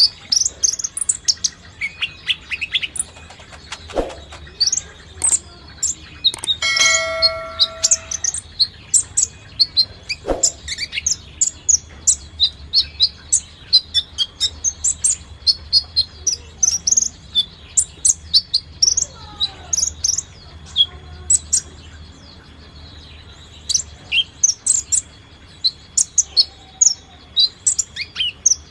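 Brown-throated sunbird (kolibri ninja) singing: a fast, unbroken run of sharp, high chirps. About seven seconds in, a ringing tone holds for about a second.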